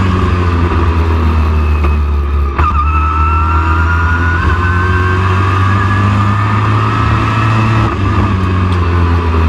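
Racing super truck engine running hard under load; after a brief dip about two and a half seconds in, its pitch climbs slowly, then the note changes near the end as the throttle eases.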